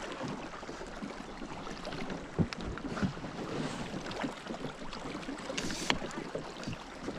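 Steady rush of river water around a small fishing boat, with wind on the microphone and a few sharp knocks, two of them louder, about two and a half seconds in and near six seconds.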